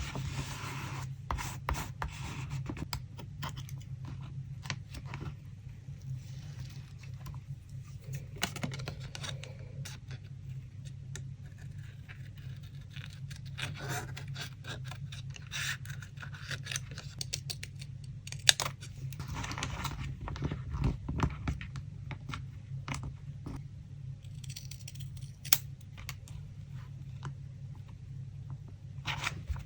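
Paper crafting: paper rustling and scraping, scissors snipping, and small taps and clicks as paper pieces are handled, over a steady low hum.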